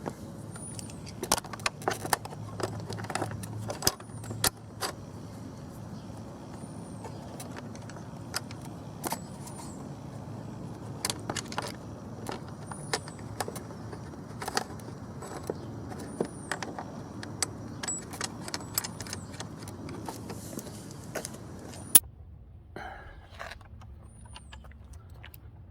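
Small metal hardware clinking and clicking as a motorcycle windscreen fairing is worked by hand onto its mounting bolts, with washers, nylon lock nuts and the bracket knocking together. A sharp click comes near the end, after which it goes quieter, and a faint high chirp recurs every couple of seconds.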